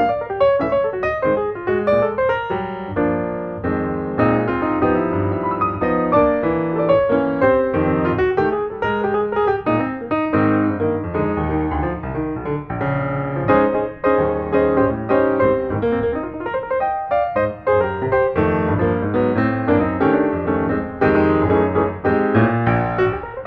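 Background music led by piano, a steady flow of notes with chords underneath.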